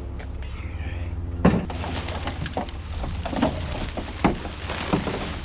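Scrap items being handled and moved: a run of clanks, knocks and clinks, the loudest about a second and a half in, over a steady low hum.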